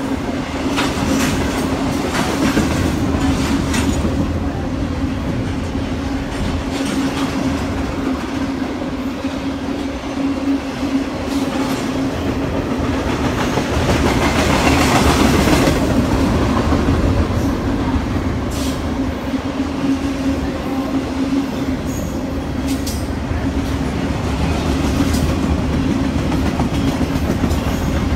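A train passing close by: a steady rolling rumble of wheels on rail, with a constant hum and scattered sharp clicks, swelling in loudness around the middle.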